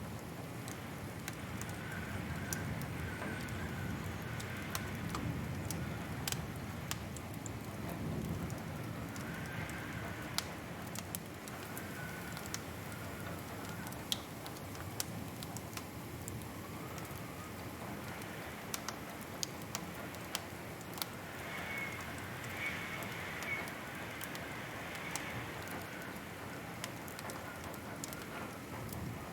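Wood fire crackling, with irregular sharp pops over a low steady rumble of the flames.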